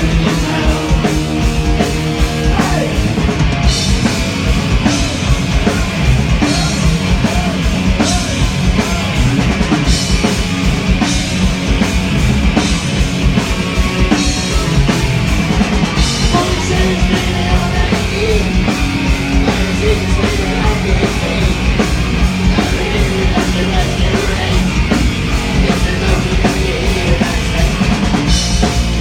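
Loud heavy rock played by a band, with a fast, driving drum-kit beat under dense full-band sound.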